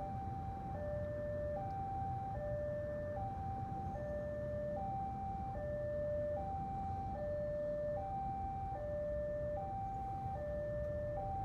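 Railway level-crossing warning alarm sounding, the signal that a train is approaching: an electronic two-note tone that alternates evenly between a lower and a higher note, each held a little under a second. Under it runs a low, steady rumble.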